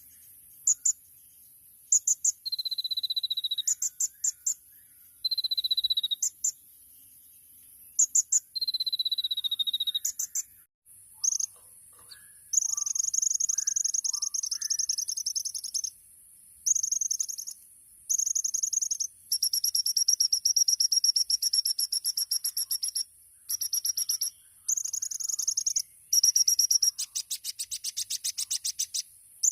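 Kolibri ninja sunbird singing a high-pitched song. It starts with sharp chip notes and three drawn-out, slightly falling thin whistles, then moves to long, very rapid buzzy trills broken by short pauses.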